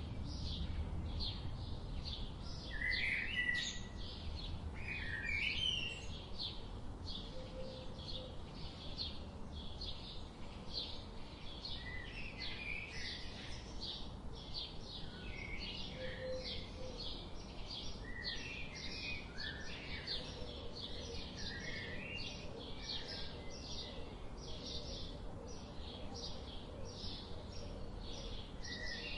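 Forest birds chirping: quick, high chirps repeating several times a second throughout, with scattered lower warbling call notes, over a steady low background rumble.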